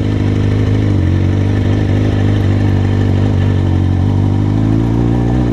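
Street motorcycle's engine running at steady low revs while being ridden slowly off-road on a dirt trail; it stops abruptly at the very end.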